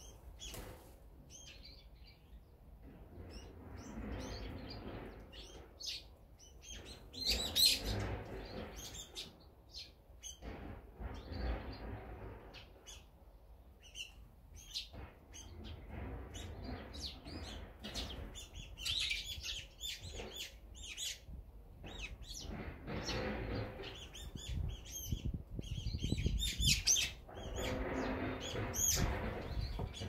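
Small songbirds chirping and tweeting in many short, overlapping calls, over a low background rumble that swells and fades several times.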